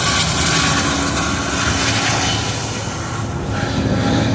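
Freight train rolling past: a steady, loud noise of car wheels on the rails with a steady droning hum underneath.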